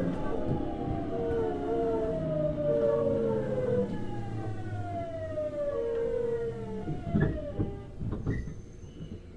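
Hitachi GTO-VVVF traction inverter of a Tokyu 9000 series electric train whining in falling steps as the train slows under braking. A few knocks come near the end as it slows toward a stop.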